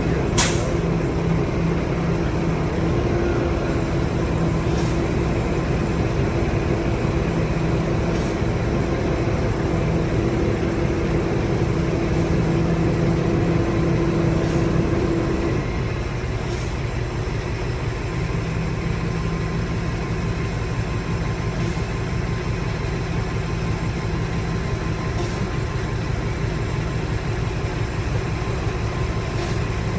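Semi-truck diesel engine running steadily, heard from the cab while the rig is backed toward a loading dock. A strong steady hum in the engine sound drops away about halfway through, and faint ticks come every few seconds.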